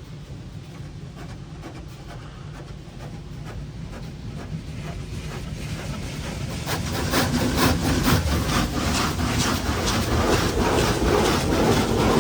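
High-pressure water jets from a Futura Impulse in-bay car wash drumming against the car body, heard from inside the cabin. The spray gets louder from about six seconds in and becomes a dense, rapid rattle as the overhead high-pressure bar passes over the roof.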